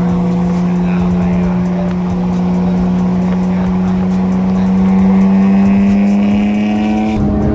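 Car engine held at high revs under hard acceleration, its pitch rising slowly and steadily, then cut off abruptly near the end.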